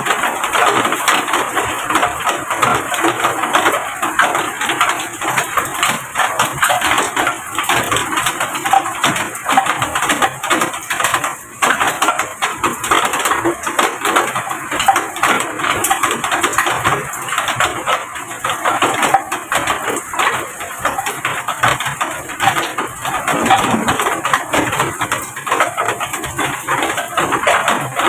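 Heavy rain falling steadily, a dense, even patter of countless small drops.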